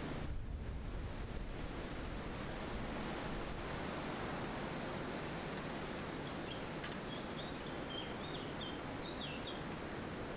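Wind rushing steadily through forest trees, a little stronger in the first second or so. From about six to nine and a half seconds in, a bird gives a quick series of faint high chirps.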